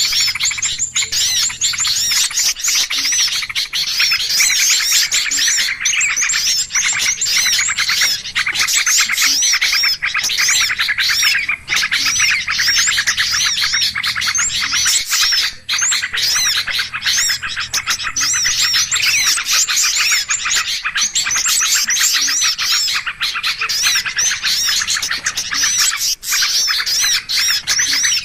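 Bird-lure recording of many small songbirds chirping and twittering at once, a dense, unbroken chatter of short, quick notes.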